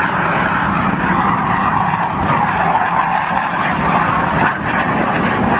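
Jet noise from RAF BAE Hawk T2 trainers flying a close-in dogfight: a loud, steady rush with no clear pitch.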